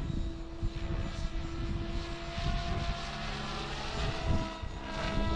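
Kraken 580 electric RC helicopter in flight: a steady whine from the motor and rotors that shifts in pitch about halfway through, with wind gusting on the microphone.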